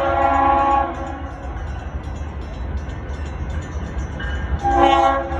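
BNSF locomotive horn sounding twice: a chord that cuts off about a second in, then a second short blast near the end, over the steady low rumble of the passing train.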